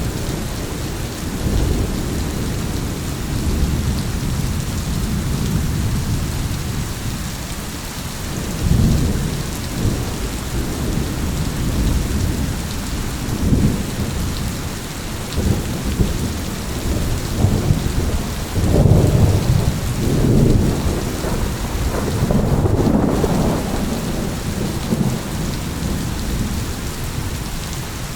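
Steady heavy rain with thunder rumbling again and again, the rolls swelling and fading every few seconds and strongest in the second half.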